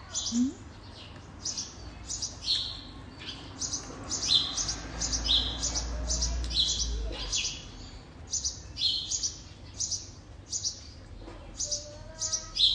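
Small birds chirping repeatedly, short high notes about one or two a second, with a faint low rumble in the middle.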